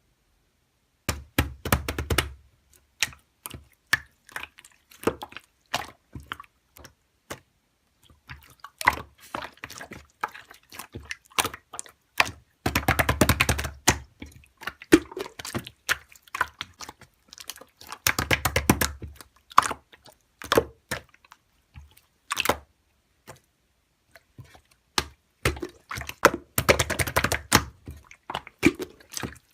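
Close-up, irregular clicking and tapping in dense clusters, some with a wet, liquid-like crackle and a low thud beneath. The densest runs come about halfway through and again near the end.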